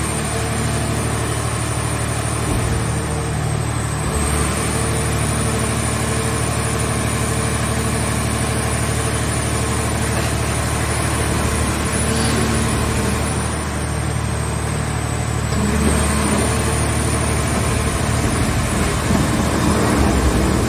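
Engine of a scrap car shell baler running steadily.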